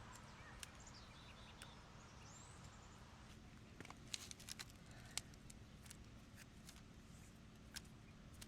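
Near silence outdoors: a few faint high bird chirps early on, and a scattering of small sharp clicks, bunched a little after the middle, over a low steady background hum.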